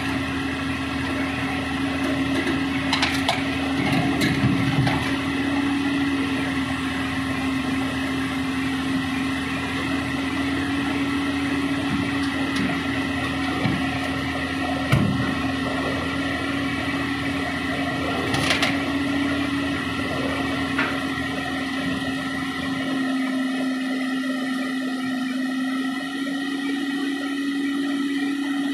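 JCB backhoe loader's diesel engine running at a steady pitch with a steady whine over it, with a few short knocks along the way; the deepest rumble drops away about 23 seconds in.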